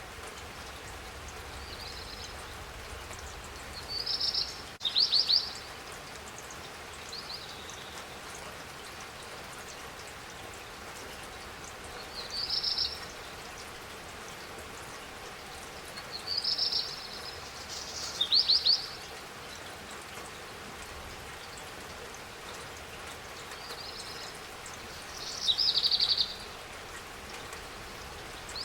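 Steady spring rain falling, with a bird calling in short high chirps and trills every few seconds, the loudest phrases about four seconds in, near the middle and a couple of seconds before the end.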